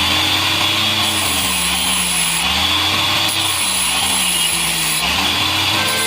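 A power tool running continuously, its pitch rising and falling in slow swells about every two seconds.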